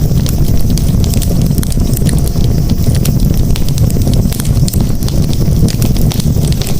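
Campfire burning with many irregular sharp crackles and pops over a steady low rumble of the flames.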